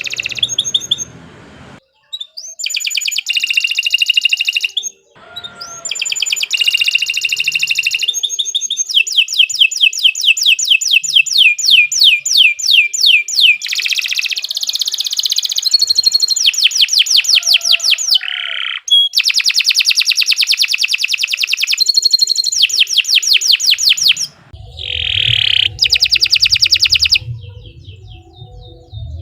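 Domestic canary singing a long song of rapid trills and rolls, fast repeated notes delivered in phrases of a few seconds with short breaks between them.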